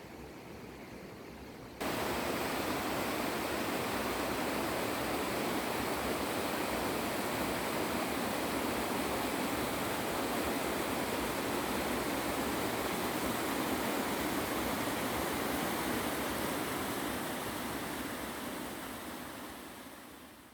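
Flowing stream water rushing steadily. It is quieter for the first two seconds, steps up suddenly to a louder rush, and fades out near the end.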